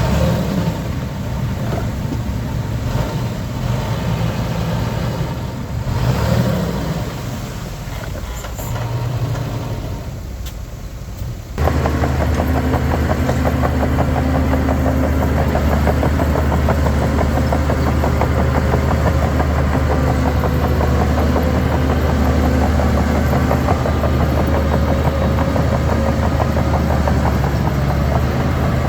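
Diesel engines of heavy earthmoving machinery running, uneven and varying at first. A little over a third of the way through, the sound switches abruptly to a louder, steady engine drone.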